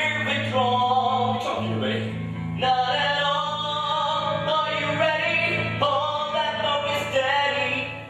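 A male voice singing held notes over band accompaniment with sustained bass notes, from a stage musical number.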